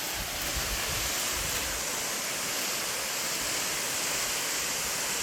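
Small waterfall: water falling steadily, a continuous even rush.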